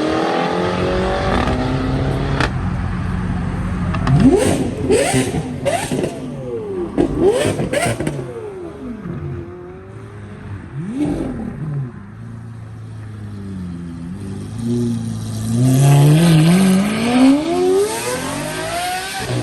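Car engines revving and accelerating as cars pull out, with several quick throttle blips about four seconds in and a long climbing rev near the end.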